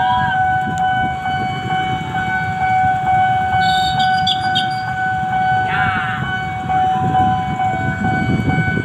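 Train passing at speed through a level crossing: a steady low rumble of the wheels on the rails, with a constant high warning tone held over it.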